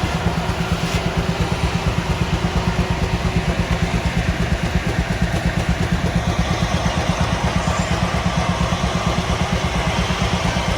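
An engine running steadily, its low exhaust beat pulsing evenly at about seven beats a second.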